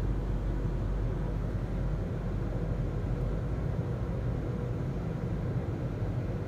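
Steady low rumble of a WashTec SoftLine 2 car wash tunnel's conveyor and machinery, heard from inside the car as the conveyor pulls it along, with a faint steady hum.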